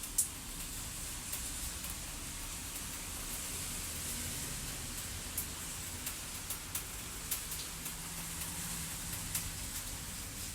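Fireplace ambience: a wood fire crackling with irregular sharp pops over a steady rain-like hiss and a low rumble.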